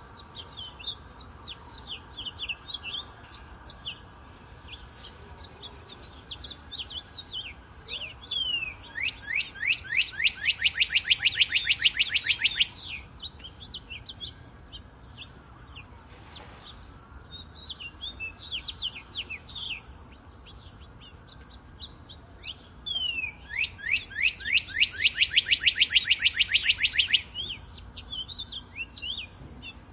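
Songbirds chirping, with one bird twice singing a loud, fast trill of rapidly repeated downward-sliding notes that builds in loudness over about four seconds, the two trills some fourteen seconds apart.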